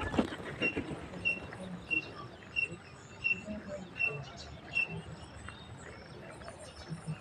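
A small bird chirps over and over, one short high chirp about every two-thirds of a second, stopping about five seconds in. Pigeons coo softly and low underneath.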